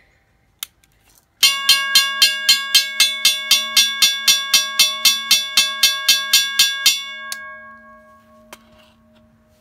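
WRRS model 222 electro-mechanical railroad crossing bell, powered from 12 volts DC, its clapper striking the gong about four times a second for some five seconds, then the gong ringing out and fading once the power is cut. A click comes just before the strikes start.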